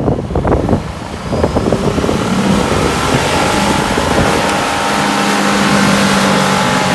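Ford Five Hundred's 3.0-litre V6 revving hard with the tyres spinning in deep mud as the stuck car tries to reverse. A few sharp spatters in the first second or so, then the engine note holds steady and grows louder from about two seconds in.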